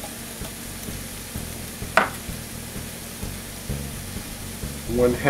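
Ground beef and tomato sauce sizzling steadily in a stainless steel skillet, with one sharp click about two seconds in.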